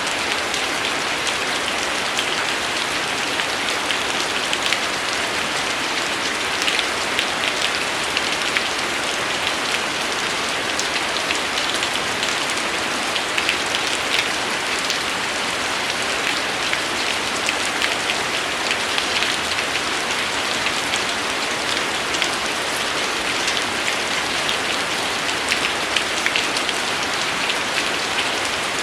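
Steady rain falling: an even hiss with many small, distinct drop ticks spattering through it.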